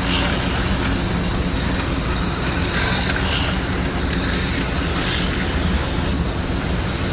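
HO-scale slot cars running around a plastic track, their small electric motors whirring steadily.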